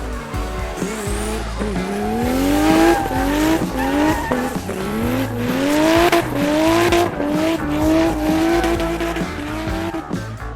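Race car sound effect: an engine revving in a run of repeated rising sweeps, starting about two seconds in, with tyres screeching as the car spins donuts, over background music.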